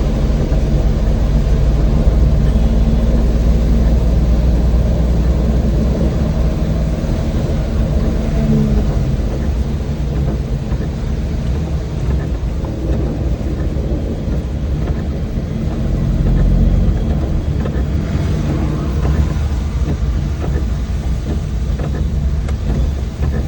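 An old van driving: steady engine hum and road noise, heaviest in the first few seconds and swelling again briefly past the middle.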